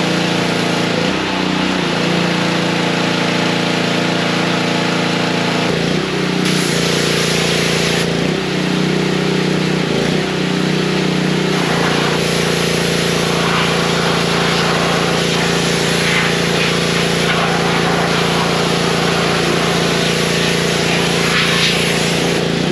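An engine running steadily, its pitch shifting in steps a few times, with a hiss over it that grows stronger about halfway through.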